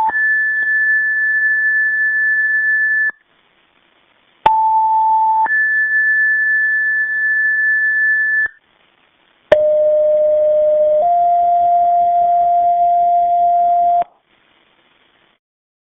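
Fire department two-tone sequential pager alert tones, sounded as a memorial last alarm. There are three pages. The first two are identical: a short lower tone, then a higher tone held about three seconds. The third is lower in pitch: a tone of about a second and a half that steps up slightly and holds about three seconds. Each page cuts off cleanly, with silence between them.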